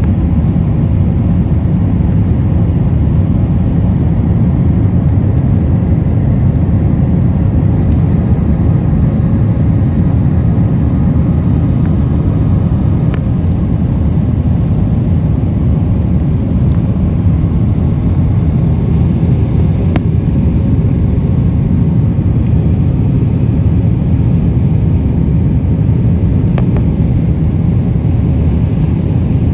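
Airliner cabin noise: the jet engines and airflow making a loud, steady low rumble, heard from a window seat during take-off and climb-out.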